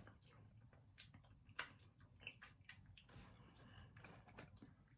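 A person chewing food close to the microphone: faint, irregular mouth clicks, with one sharper click about a second and a half in.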